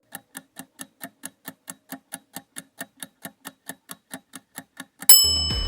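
Clock-ticking countdown sound effect, about five even ticks a second for five seconds, ending about five seconds in with a bright chime that marks time up as background music starts.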